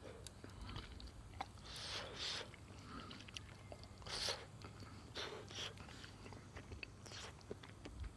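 A person chewing and biting food close to the microphone, with faint irregular crunches and clicks.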